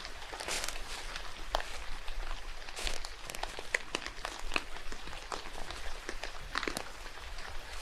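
Rain falling in a forest: a steady hiss with many irregular drops tapping and pattering close by.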